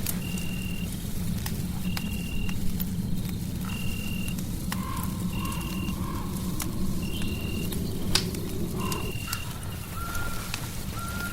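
Crackling fireplace: a steady low rumble of burning wood with frequent sharp pops and snaps. Over it, a short high-pitched tone repeats about once a second, with a fainter hum rising in the middle.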